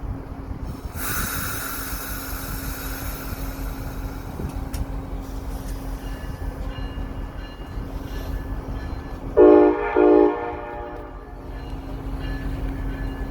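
Amtrak passenger train standing at the platform over a steady low hum. About a second in comes a sharp hiss of air that fades over a few seconds, and about nine seconds in the locomotive horn sounds two short blasts.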